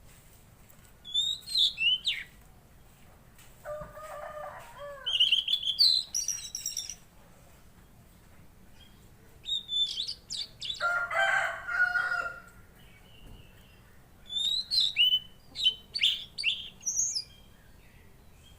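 Tledekan laut songbird singing in bursts of high, sliding whistled notes, four phrases separated by short pauses. Twice, about four seconds in and again around eleven seconds, lower warbling notes come in between the high phrases.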